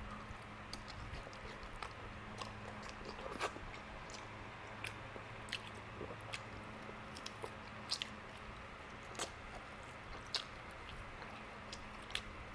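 Close-up mouth sounds of a man biting and chewing barbecued pork rib meat off the bone, with scattered sharp wet clicks about once a second.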